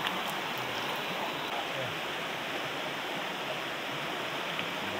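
Steady rushing of heavy rain together with a flowing river.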